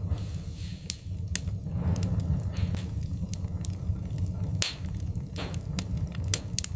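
Wood-burning fire crackling: irregular sharp pops and snaps over a steady low rumble, with a couple of brief hissing swells.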